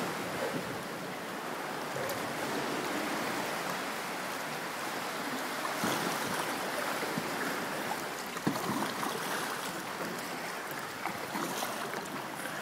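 Ocean whitewater rushing and washing around a kayak, a steady churning of seawater, with a couple of brief knocks about halfway through and again a few seconds later.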